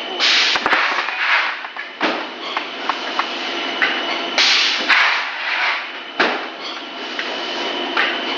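Extruder machine running through a repeating cycle: a loud hiss about every four seconds, each followed by a second hiss about a second later, with sharp knocks in between over a steady machine noise and a faint high whine.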